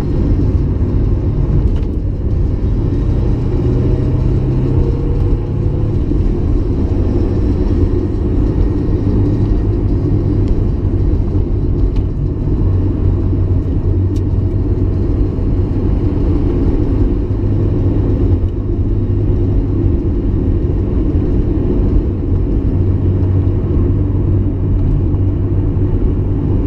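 1994 Mazda MX-5 Miata's 1.8-litre twin-cam four-cylinder engine pulling steadily while driving, with constant road rumble, picked up inside the cabin by a dash cam. The engine note rises slightly a few seconds in and otherwise holds steady.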